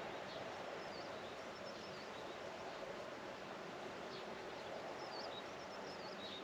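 Outdoor farmland ambience: a steady background hiss with small birds giving short, high chirps several times.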